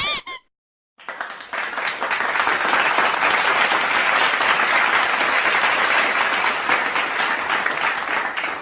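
Crowd applause: many hands clapping, building up quickly about a second in and then holding steady. It is preceded by a brief high chirp at the very start.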